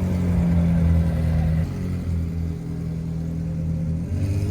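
A car engine revving: its pitch settles into a steady run, then climbs again near the end as it is revved up.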